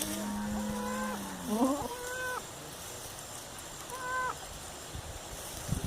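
Goat bleating during labour: a long low call, then a rising cry and two short higher bleats a couple of seconds apart.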